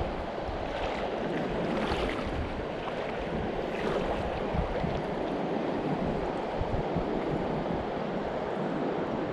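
Steady rush of a mountain river's flowing current.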